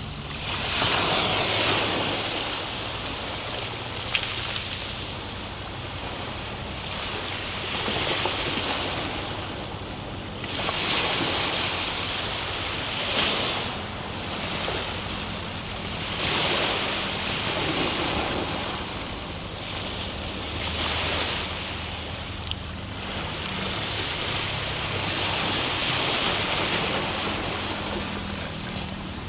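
Ocean surf: waves breaking and washing up the shore, with a fresh surge every few seconds.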